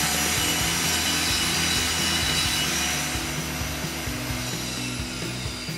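Steady rasping noise of old floor surface being sawn or scraped, under background music; the rasping eases off about halfway through.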